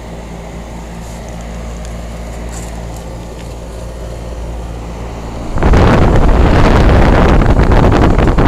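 2005 Trane XR11 2.5-ton heat pump outdoor unit running in cool mode, its compressor humming steadily. About five and a half seconds in, a much louder rush of air sets in, fluttering as the condenser fan's discharge buffets the microphone.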